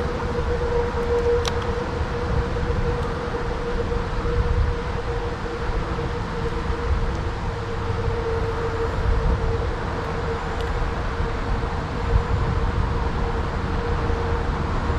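Wind rumbling on the microphone over the water, with a steady hum at one even pitch throughout and a couple of faint ticks.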